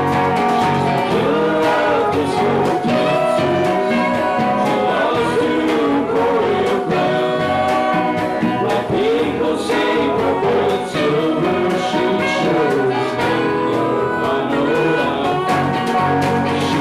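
Live band playing a song, with a singing voice over the instruments.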